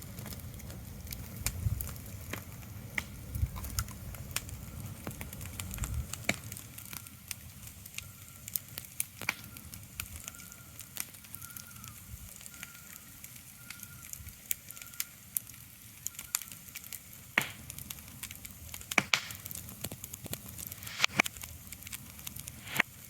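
Irregular sharp crackles and pops over a soft steady hiss, with a low rumble that stops about six seconds in.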